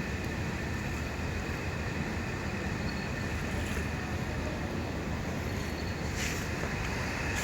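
Ferry's engines and machinery running in a steady low rumble, with a faint high steady whine over it, as the ship manoeuvres to dock.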